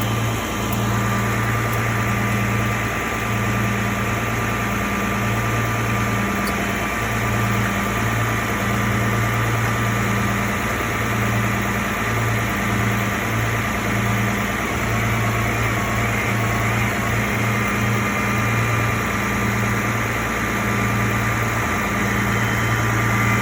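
Vehicle engine idling: a steady low hum with a regular, even throb.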